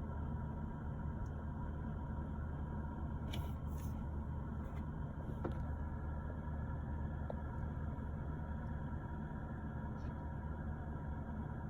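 Steady low engine drone with no change in pitch or level, from either the distant load-carrying helicopter or an idling vehicle.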